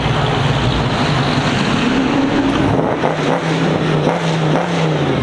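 A car engine running close by with a steady low hum, its pitch shifting about two and three seconds in.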